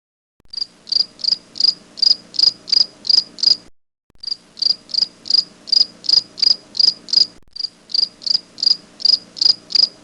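Cricket chirping sound effect: even, high chirps at about three a second, with two short breaks, near 4 s and 7.5 s, where the recording loops.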